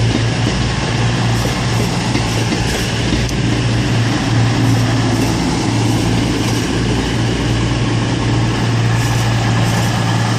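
Diesel train engines running steadily at the platform, a constant low hum.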